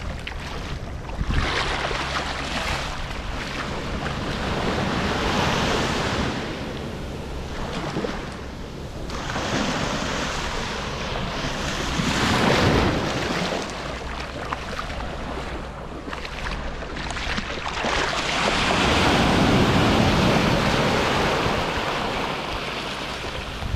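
Ocean surf breaking on a beach: the wash of the waves swells and falls back in long surges, three big ones several seconds apart, with wind rumbling on the microphone throughout.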